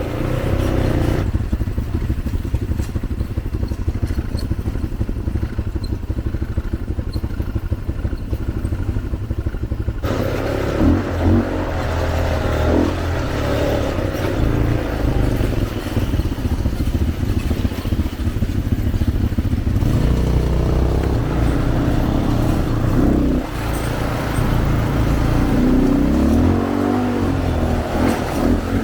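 ATV engine running while being ridden, its note rising and falling a few times as the throttle is worked.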